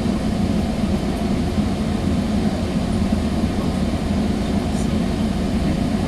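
Steady low rumble inside a Sounder commuter rail passenger coach, heard from aboard the train.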